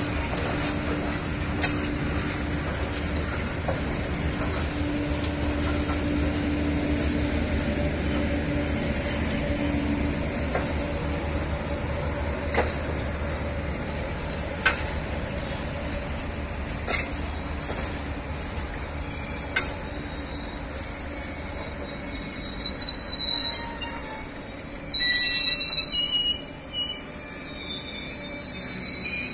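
Passenger train coaches rolling slowly through a station as the train arrives, a steady rumble broken by a few sharp clicks. In the last several seconds the brakes and wheels squeal high-pitched as the train slows to a stop.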